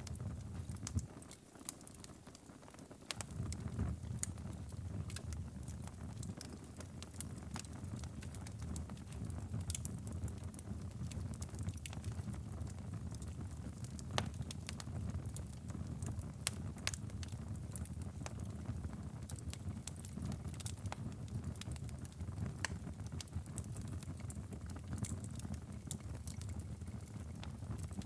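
Wood fire crackling and popping: many irregular sharp snaps over a steady low rumble. The rumble dips briefly about a second in.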